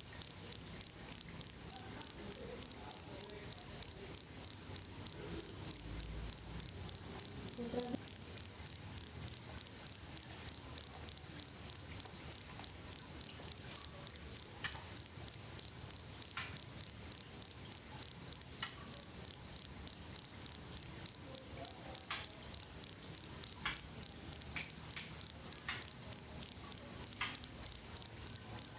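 Cricket chirping: one high-pitched chirp repeated at an even rhythm of about three a second.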